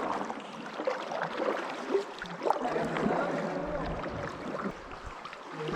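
Kayaks being paddled through still water: paddle strokes dipping and splashing, with a few light knocks.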